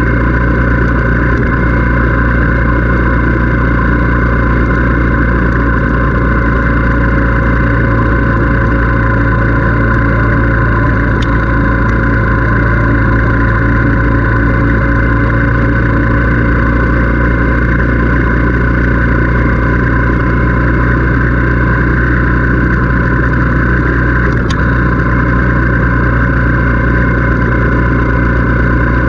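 Motorcycle engine running at a steady speed while riding, with no change in pitch; two faint ticks are heard, one in the middle and one near the end.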